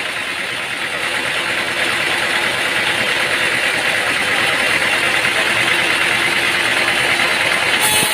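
An engine running steadily under a dense mechanical noise, getting a little louder over the first couple of seconds; the sound changes abruptly just before the end.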